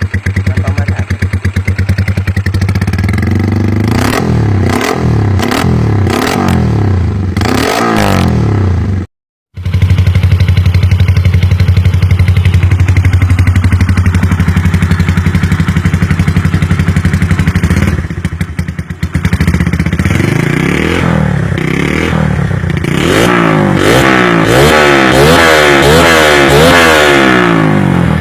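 Honda Sonic single-cylinder motorcycle engine with a loud aftermarket exhaust, revved in repeated quick blips, then held at a steady speed, then blipped again. The sound cuts out briefly about nine seconds in.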